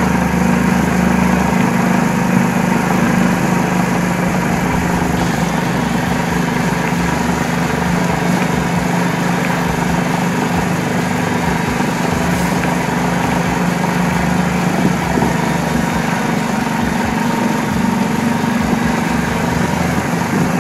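A golf cart's small engine running at a steady speed.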